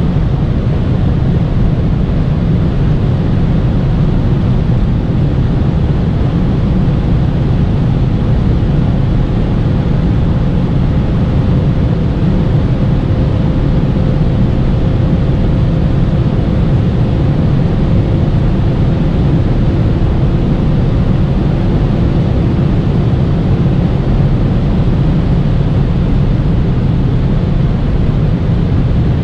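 BMW E39 540i's 4.4-litre V8 running at a steady speed, with a steady drone of engine, tyre and wind noise.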